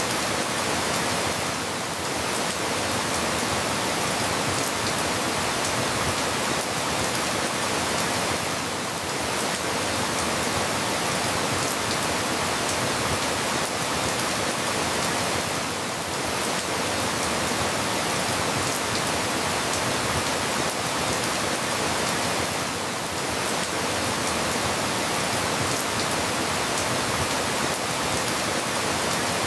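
Steady rain falling, an even hiss of many drops, dipping slightly in level about every seven seconds.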